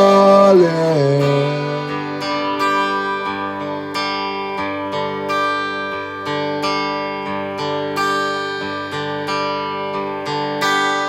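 A singer holds the last word of a line, its pitch sliding down, and stops about a second in. Acoustic guitar then plays alone in an instrumental break, with a steady pattern of plucked and strummed notes.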